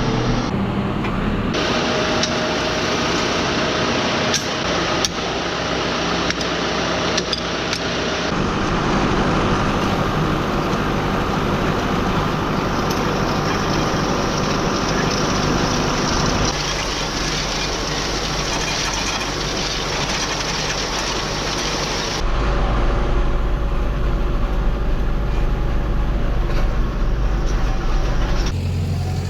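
Engines running steadily in a run of short segments whose sound changes abruptly every several seconds, with a heavy low rumble in the last several seconds.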